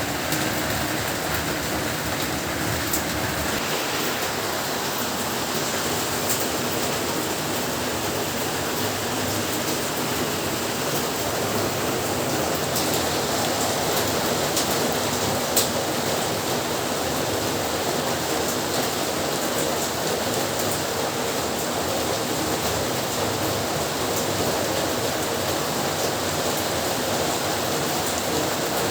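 Heavy rain falling steadily, with a few sharp drip taps, one louder about halfway through.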